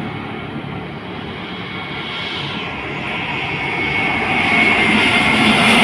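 Airbus A321 jet engines on landing approach, growing steadily louder as the airliner comes closer. A high whine comes in about four seconds in and slides slightly lower in pitch.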